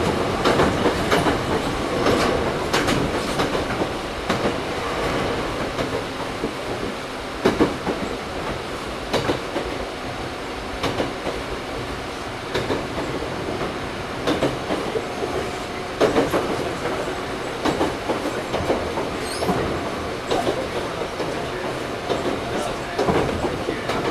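Running sound inside a Toyohashi Railway 1800 series electric train (a former Tokyu 7200 series car with resistance control), heard from the motor car. A steady rolling rumble is broken by sharp clacks every second or two as the wheels pass over rail joints.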